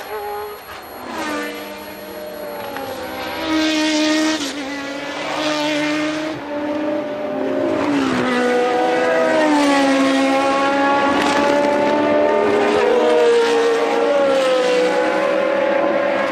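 1982 Formula One race car engines at high revs, their pitch falling and rising as the cars brake, shift gears and accelerate. The sound grows louder and steadier about halfway through.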